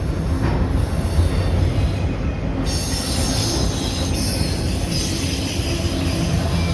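Freight train cars rolling past close by: a steady loud rumble of steel wheels on rail with a high hiss and faint wheel squeal.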